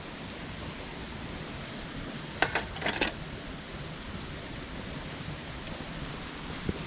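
A few sharp clicks, a cluster about two and a half to three seconds in and one more near the end, over a steady hiss.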